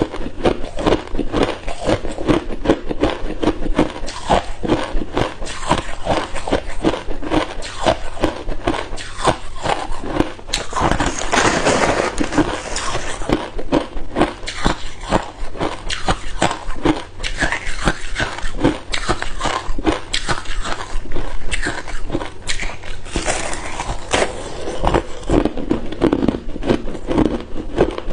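Hard ice cubes being bitten and chewed close to the microphone: a dense, unbroken run of sharp cracks and crunches.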